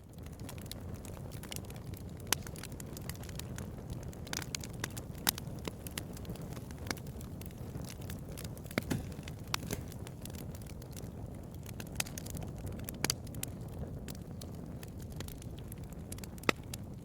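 Bonfire burning: a steady low rumble of flames with irregular crackling from the burning wood and occasional louder sharp pops.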